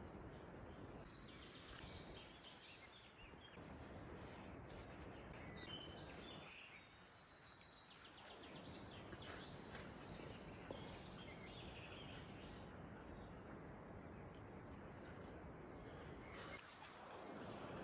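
Faint outdoor ambience: a steady low hiss with a few faint, scattered bird chirps.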